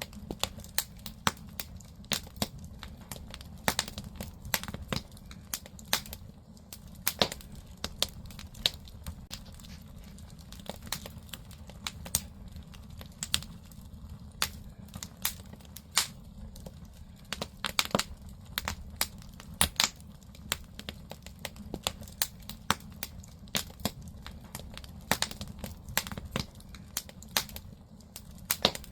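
Firewood burning in a traditional Korean agungi firebox: sharp, irregular crackles and pops from the burning logs, several a second, over a low steady rumble of the fire.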